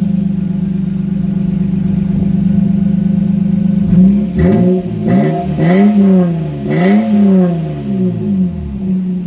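Lexus GS300's 2JZ-GE inline-six idling through an exhaust with its secondary mufflers removed, then revved in several quick throttle blips, rising and falling about four times, before settling back to idle.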